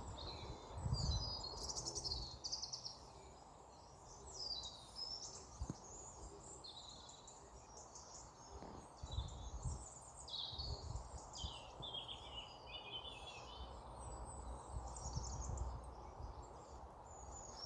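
Many small birds chirping, with short, quick calls overlapping one another throughout, over an intermittent low rumble.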